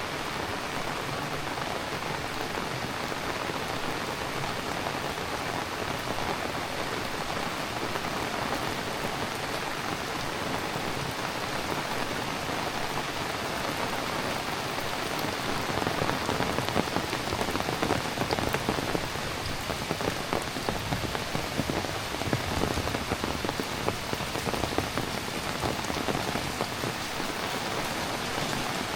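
Heavy rain falling steadily, a dense patter of drops on surfaces. From about halfway through, louder and sharper drop hits stand out for around ten seconds before it settles again.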